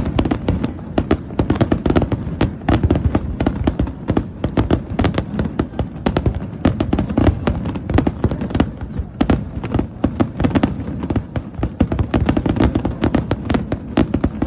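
A fireworks display in full barrage: many shells bursting one after another, several bangs and crackles a second, overlapping with no pause.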